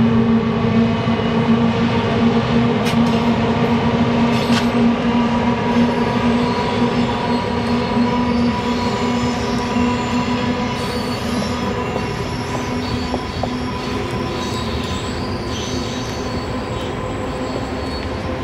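General Electric E60C-2 electric locomotives hauling a loaded coal train past at close range: a steady electric hum and whine over the rumble and rattle of wheels on the rails. The sound eases a little in the second half as the coal hoppers roll by.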